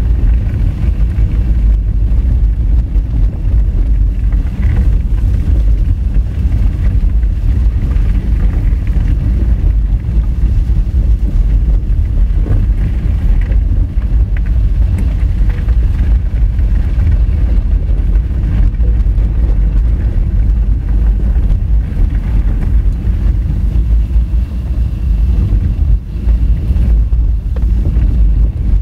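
Honda Fit driving on a rough gravel dirt road: a loud, steady low rumble of tyres and body over loose stones, with some wind noise on the microphone.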